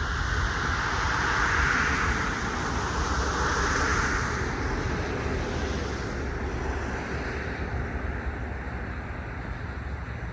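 Wind buffeting the microphone outdoors, with a broad rushing noise that swells twice in the first few seconds and fades after about six seconds.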